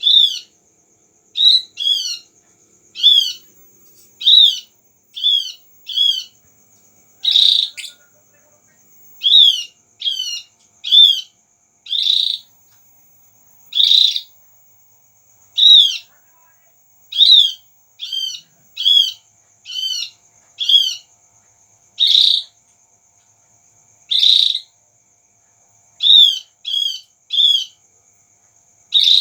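Javan grey-throated white-eye (opior jawa) calling, short sharp hooked notes given singly or in quick pairs every second or two, played as a lure call to prompt other birds of its kind to answer.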